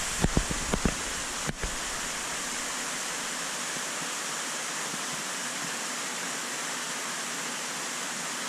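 Steady rushing of running water, an even hiss that holds unchanged, after a few low knocks and a click in the first second and a half.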